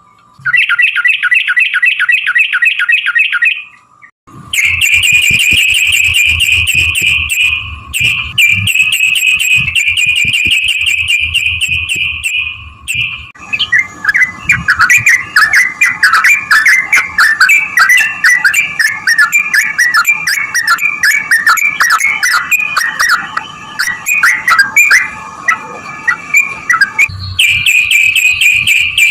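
Yellow-vented bulbul (trucukan) singing long runs of rapid, repeated chattering notes separated by brief pauses. Roughly midway the song turns into a looser, more varied chatter, then goes back to the fast repeated run near the end.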